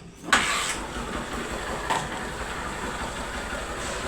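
Honda Fan 125 single-cylinder four-stroke engine, freshly rebuilt with a 150 cc cylinder, piston and connecting rod, started cold. It catches about a third of a second in and settles into a steady, evenly pulsing idle.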